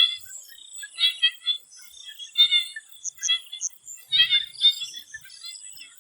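Swamp frogs calling in a chorus: short, rapidly pulsed calls, several voices overlapping and repeating about every second, the loudest cluster about four seconds in. A steady high-pitched buzz runs underneath.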